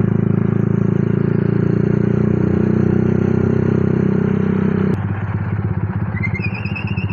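Honda CB motorcycle with a bored-up 200cc Honda Tiger engine and a dos-style exhaust, idling steadily. Its sound thins and drops a little about five seconds in. A repeated high chirping starts near the end.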